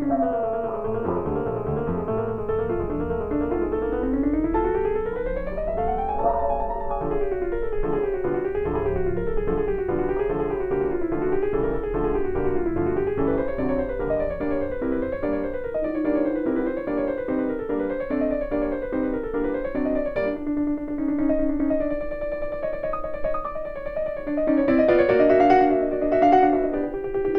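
Background piano music: quick runs and flowing arpeggios, with a fast rising scale about four seconds in.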